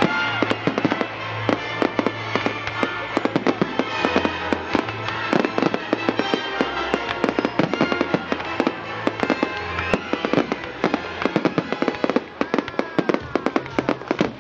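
Fireworks crackling and popping in a rapid, continuous barrage of many small cracks a second, with music playing underneath.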